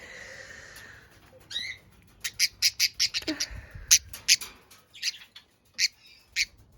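Pet budgerigar squawking: a rapid string of short, sharp, harsh chirps, about a dozen, starting about two seconds in and thinning out near the end.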